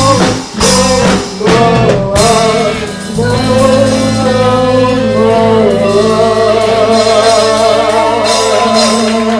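Live rock-blues band playing with guitar and drums, a few stabbed chord hits and then one long held final chord with a sustained sung note.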